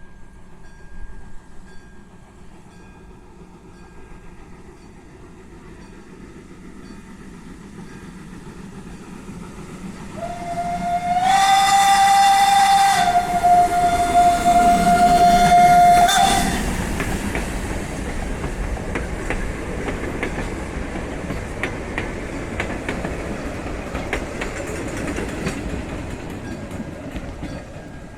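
Steam locomotive whistle blowing one long blast of about six seconds that drops slightly in pitch partway through, over the rising noise of the train. Afterwards the train runs on, with wheels clicking on the rail joints.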